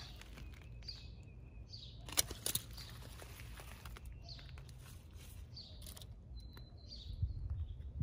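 Small birds chirping, short calls about once a second, with a couple of brief whistled notes. A couple of sharp clicks come about two seconds in, and a low rumble of wind or handling grows near the end.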